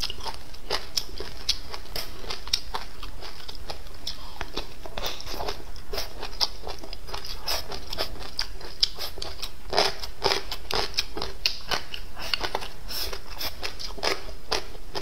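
Close-miked chewing, with irregular wet mouth clicks and smacks a few times a second, over a faint low hum.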